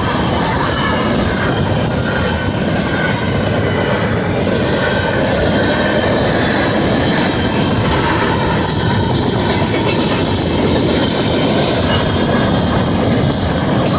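Freight train rolling past at close range: a steady, loud rumble of cars and wheels on the rails, with some wheel squeal.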